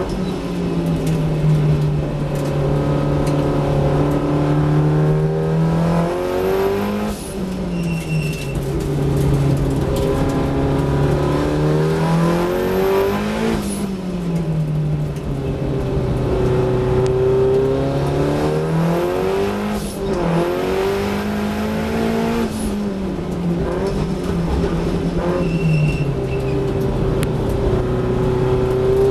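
Datsun 1600 race car's Z16 four-cylinder engine driven hard around a circuit. The revs climb, drop sharply and climb again several times as the car brakes for corners and accelerates out.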